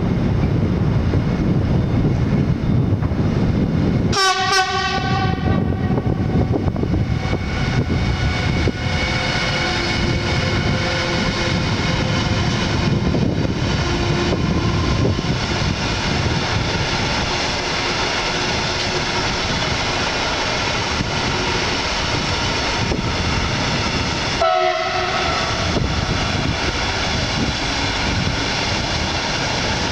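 Siemens Vectron electric locomotive sounding its horn in one blast about four seconds in, followed by the steady rumble and rattle of a long container freight train's wagons rolling past. A second, shorter horn note sounds about twenty seconds later.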